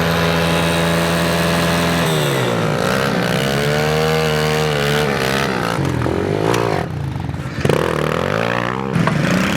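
Pit bike engine running under riding load: the note holds steady for about two seconds, then falls and climbs again several times as the throttle is rolled off and on.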